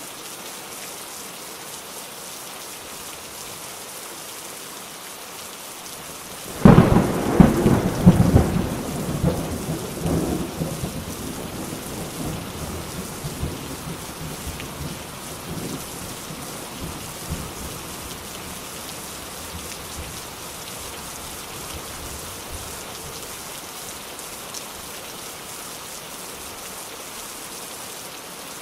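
Steady rain, with a loud thunderclap about six seconds in that cracks sharply and then rumbles, dying away over the next ten seconds.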